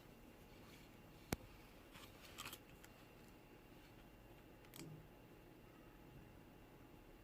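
Near silence: room tone with one sharp click a little over a second in, followed by a few faint clicks and rustles of handling.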